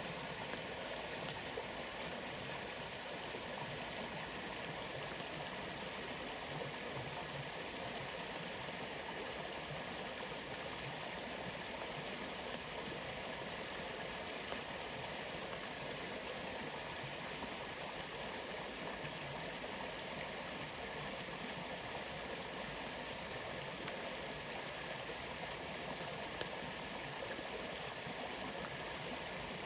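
Waterfall and stream water rushing steadily, an even unbroken hiss.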